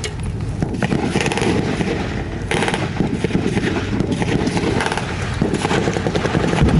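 Blank gunfire from a WWII battle re-enactment, a dense crackle of rapid shots with a low rumble underneath, flaring louder about a second in and again about two and a half seconds in.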